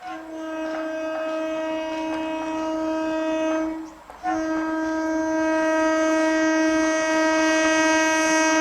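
Horn of an EMU suburban local train sounding two long steady blasts. The first lasts about four seconds; after a short break the second is held on, growing slightly louder.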